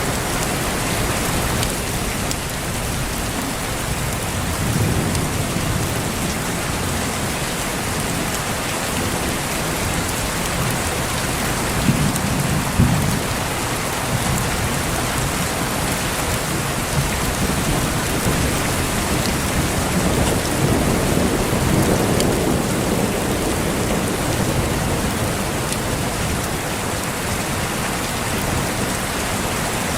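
Steady heavy rain hissing, with low thunder rumbling up three times, loudest with a couple of sharp cracks about twelve seconds in.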